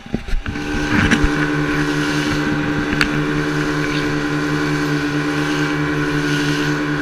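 A boat motor starts up with a few knocks about half a second in and then runs steadily under way, with a few more knocks around one and three seconds in.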